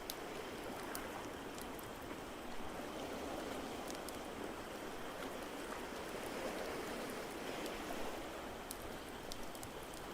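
Ambience of ocean waves, a steady wash that swells and eases slowly, with a fireplace crackling in scattered sharp pops.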